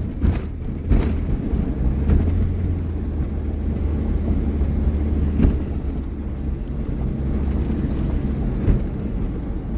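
Steady low drone of a vehicle driving on an icy, snowy highway, heard from inside the cab, with a few brief knocks from the road surface.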